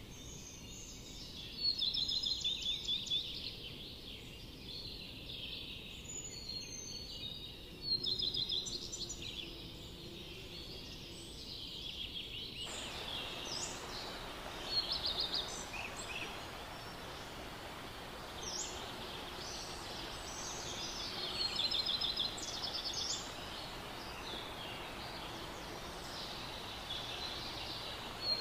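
Outdoor ambience with birds calling: short bursts of rapid trilling calls come again and again over a steady hiss, and the hiss grows fuller about halfway through.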